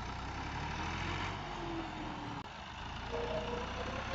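Tractor diesel engine running steadily, a stuck tractor working to pull itself out of deep mud.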